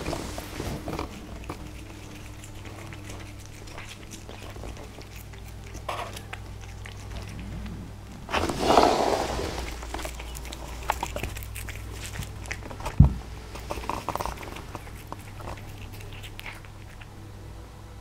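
Cat eating catnip: faint, irregular chewing clicks over a steady low hum, with a louder rustling burst about eight seconds in and a single sharp knock around thirteen seconds.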